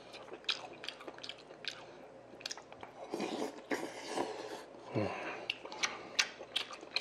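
A person chewing mouthfuls of sundae-gukbap (pork and Korean blood sausage in soup) with wet mouth clicks and smacks throughout. There is a longer slurping stretch around three to four seconds in and a brief hum-like vocal sound about five seconds in.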